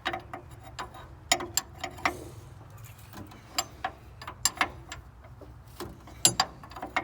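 Ratchet wrench clicking in short, irregular strokes as the upper A-arm bolts are tightened back down after shims were taken out to stand the front tire up.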